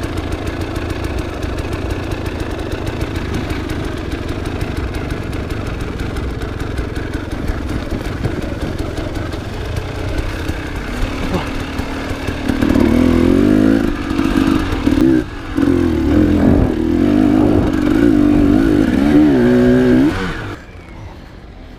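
Enduro motorcycle engine running steadily, then revved hard from about halfway through, its pitch rising and falling again and again with the throttle; the sound drops away suddenly near the end.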